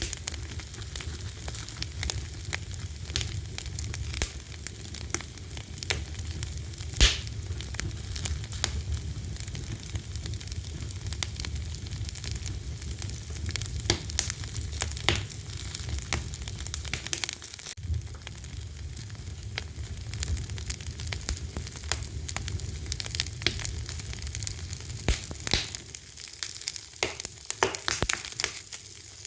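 Fire crackling: a steady stream of small snaps and pops over a low rumble, with one sharp pop about seven seconds in.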